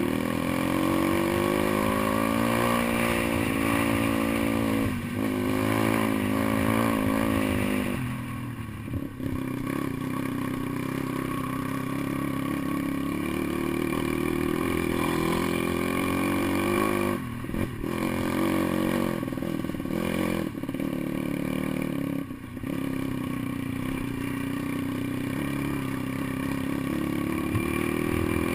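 Pit bike engine running under load off-road, the revs rising and falling with the throttle and briefly dropping off a few times, as at gear changes or easing off.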